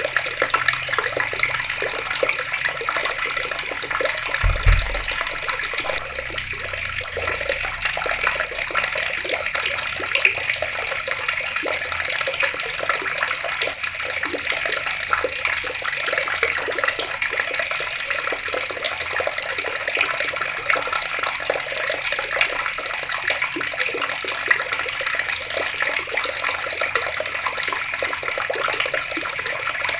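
Water from an outdoor tap pouring and splashing steadily, with a brief low thump about four and a half seconds in.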